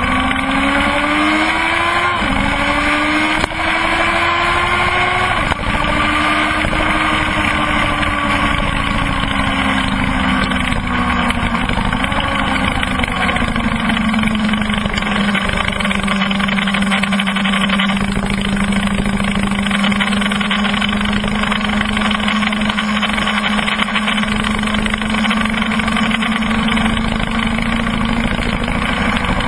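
Kawasaki ZX-12R's inline-four engine pulling hard through two quick upshifts in the first few seconds, then easing off with the pitch slowly falling and holding a steady note for the rest. Wind rushes over the onboard microphone throughout.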